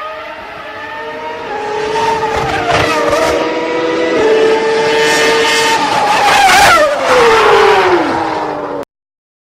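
A vehicle engine whining at high revs, growing louder, then falling steeply in pitch as if passing by. It is cut off suddenly near the end.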